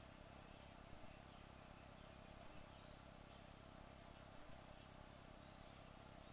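Near silence: a faint steady hum and hiss, with a few faint soft ticks.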